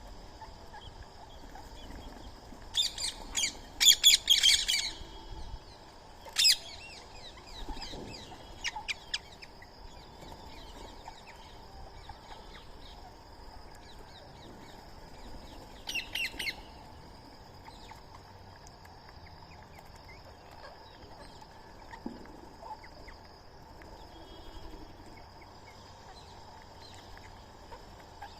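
Birds squawking: a cluster of harsh, rapid calls a few seconds in, one more shortly after, and another short burst about halfway through, over a faint steady background of outdoor birdsong.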